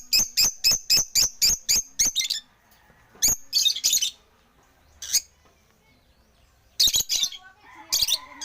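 African lovebirds chirping in sharp, high notes: a fast run of about five chirps a second for the first two seconds, then scattered single chirps and short clusters with quiet gaps between.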